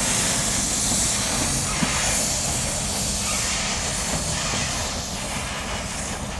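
A freight train of loaded mineral hopper wagons rolling past on steel rails: a steady rumble with a strong hiss and a few faint clicks, growing slowly quieter.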